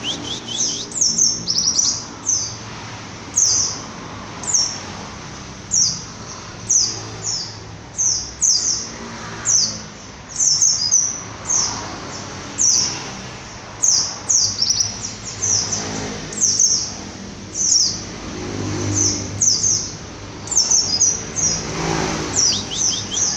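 White-eye (pleci) calling with short, high chirps that sweep downward, one or two a second, over a faint low hum.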